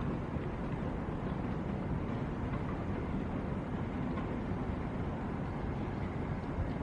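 Steady rumble of jet airliner engines, heaviest in the low end, with a faint high whine joining near the end.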